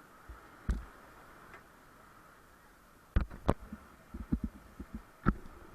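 Irregular low thumps and knocks over a faint steady hiss: one about half a second in, then a cluster of about eight starting around three seconds in.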